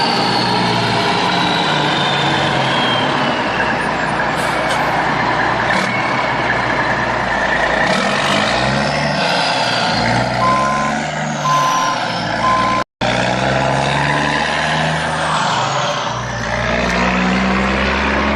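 Heavy truck engine running, its pitch rising and falling, with three short reversing beeps between about ten and twelve and a half seconds in. The sound cuts out for an instant just before thirteen seconds.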